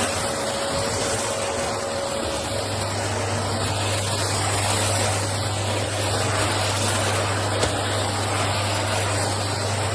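Rowenta Power XXL 900-watt bagged cylinder vacuum cleaner running steadily while vacuuming scattered rice off a parquet floor: a constant motor and airflow rush with a low hum that firms up about two and a half seconds in.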